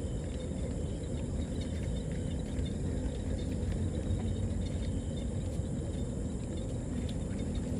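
Steady outdoor ambience: a low, even rumble with a thin, steady high insect drone over it and a few faint ticks.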